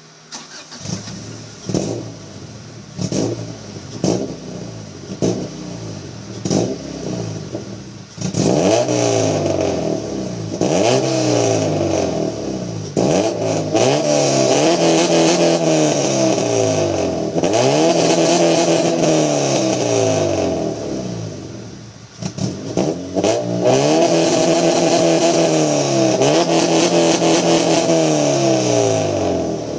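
Honda B18C1 four-cylinder in a 2001 Integra GS-R, running through 2.5-inch straight pipes and a Mugen twin-loop muffler, being free-revved. It starts with quick short blips about once a second. After about eight seconds come longer revs that climb and fall, held steady at high revs for several seconds three times.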